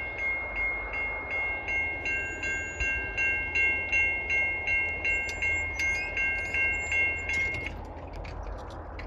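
Level-crossing warning bell ringing in quick repeated dings, about three a second, then stopping near the end as the crossing clears. A low rumble from the passing train runs underneath.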